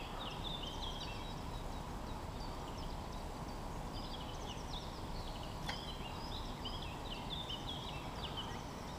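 Songbirds chirping in short, quick repeated phrases over a steady low background rush. A single sharp click comes a little before six seconds in.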